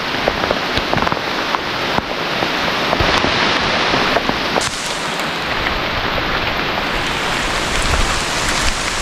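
Heavy rain falling, with many individual drops striking close to the microphone.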